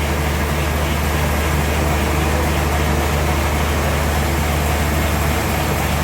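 Sawmill machinery running steadily: a constant low engine hum under an even hiss.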